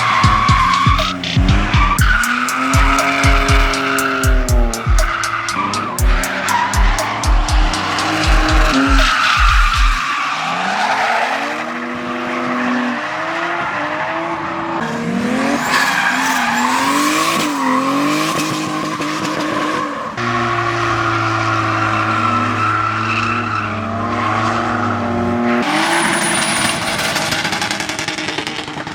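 Drift cars sliding with tyres squealing and engines revving up and down, under a steady music beat that thumps about twice a second for the first ten seconds or so.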